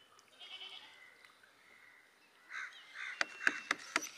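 Faint outdoor ambience with a few harsh bird calls about two and a half seconds in, then a quick run of about five sharp clicks or taps over the last second.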